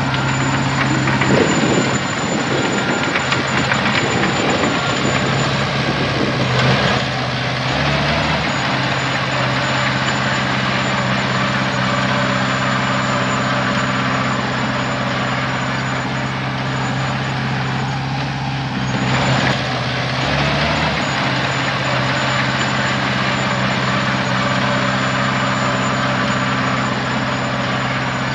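Heavy diesel engine running steadily, its pitch shifting briefly a few times, with a short hiss about nineteen seconds in.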